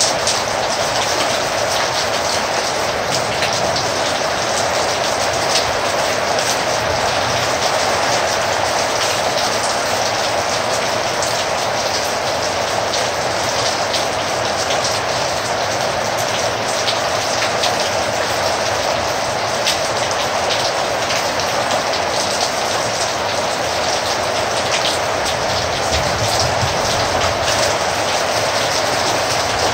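Heavy rain falling steadily, an even rushing patter with many separate drop hits through it.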